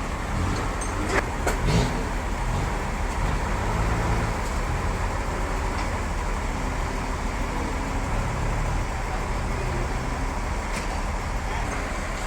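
A large engine running steadily with a low hum, its pitch bands swelling and fading, with a few light knocks about a second in and near the end.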